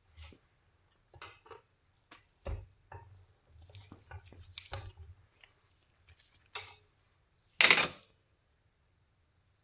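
Small metal parts and tools being handled on a workbench: a string of clinks and knocks, with one louder, longer clatter a little before the end.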